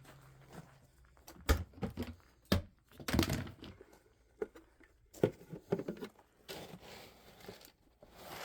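Irregular knocks, clicks and rustling, most of them in the first six seconds or so.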